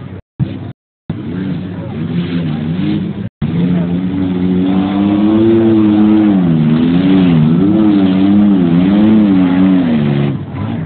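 Race car engine running hard, its pitch rising and falling over and over as it revs, loudest in the second half. The sound cuts out briefly a few times in the first few seconds.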